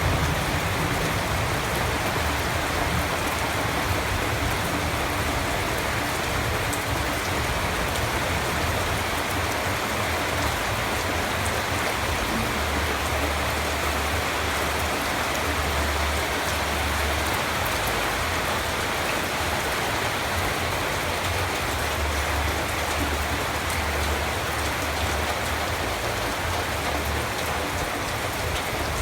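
Steady rain falling, a dense even hiss of drops on surfaces with a low rumble underneath.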